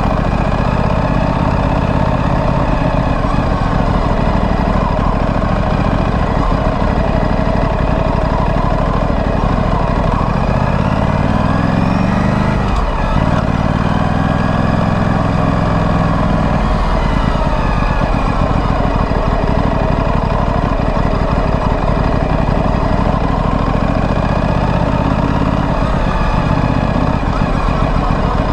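2025 Aprilia Tuono 457's parallel-twin engine through its stock exhaust, ridden in traffic at moderate revs. The engine note climbs and then drops sharply about halfway through, then rises and eases off again.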